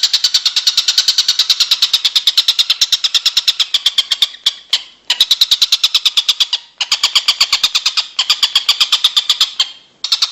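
A songbird's call on a looped training recording (masteran kicau): a fast, even run of short high notes at about seven a second. The run breaks off abruptly for a moment a few times, near the middle and near the end.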